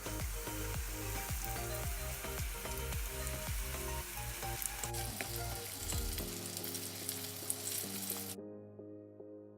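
Breadcrumb-and-flour-coated chicken pieces sizzling steadily in hot sunflower oil, over soft background music; the sizzle cuts off suddenly about eight seconds in, leaving only the music.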